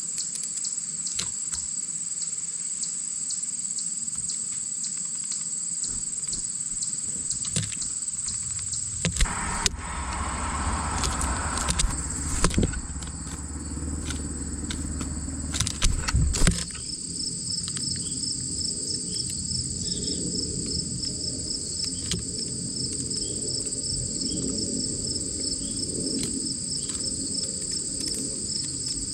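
Crickets chirring outdoors: a steady high drone, with a fast pulsing trill joining in about halfway. In the middle come several seconds of rustling and sharp knocks close to the microphone, the loudest sounds here.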